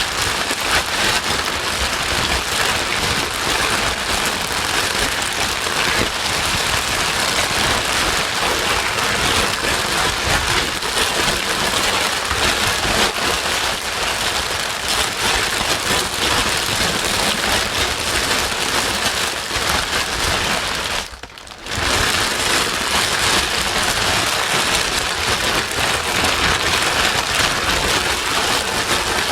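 Steady white noise for calming a crying baby: a dense, even, rain-like hiss with no pitch or rhythm, dipping briefly for about half a second about two-thirds of the way through.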